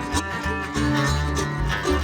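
Acoustic bluegrass-style string band playing an instrumental passage with no singing: quick plucked string notes over a low bass line that moves from note to note.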